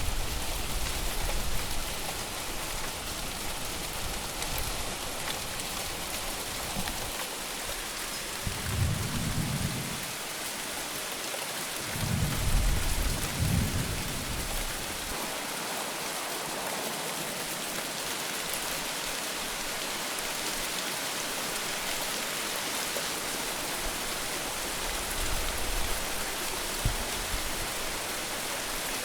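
Heavy rain falling steadily, with several low rumbles of thunder rolling through; the strongest comes a little under halfway in.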